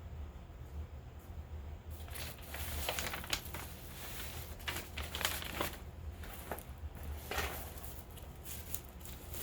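Packaging being handled and crinkled close to the microphone: an irregular run of crackles and rustles starting about two seconds in, over a steady low hum.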